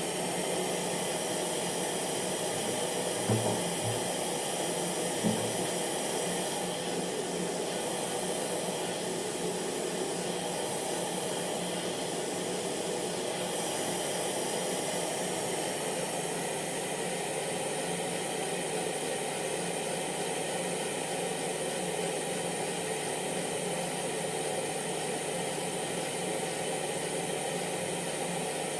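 Hair dryer running steadily: rushing air with a constant motor hum and whine. Two brief, soft low thumps about three and five seconds in.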